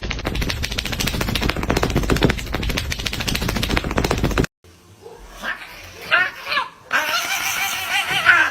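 A dense, fast rattling clatter for about four and a half seconds, which cuts off suddenly. It is followed by a dog's high, wavering whines and yelps, loudest near the end.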